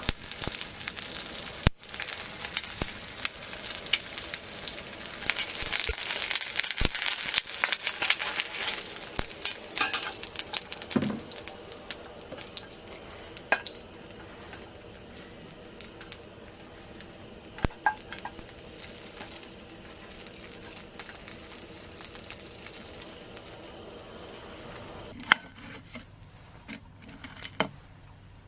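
Food sizzling in a pan, with sharp clinks of a utensil or cookware scattered through. The sizzle is loudest over the first ten seconds, then dies down to a quieter hiss.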